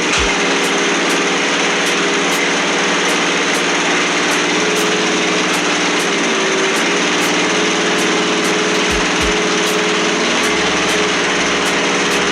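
Vermeer trencher's Kohler engine running steadily at a constant speed, being warmed up before an oil change. There are brief low thumps just after the start and about nine seconds in.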